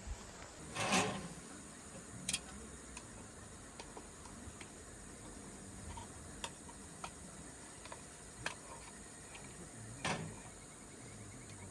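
Scattered light ticks and clicks, with two louder short knocks, one about a second in and one near the end.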